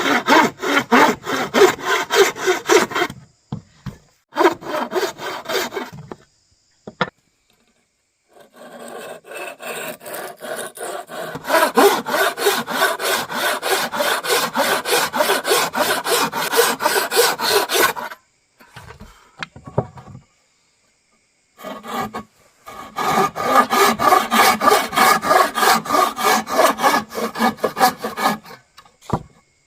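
Hand saw cutting wood in quick, even back-and-forth strokes, several a second, in four runs with short pauses between; the longest run lasts about ten seconds.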